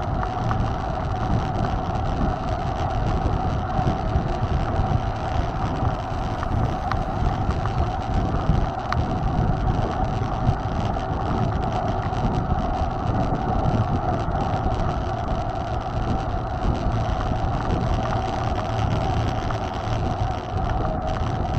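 Steady wind rush on the microphone with the rumble and hum of a mountain bike's tyres rolling while it is ridden, unbroken throughout.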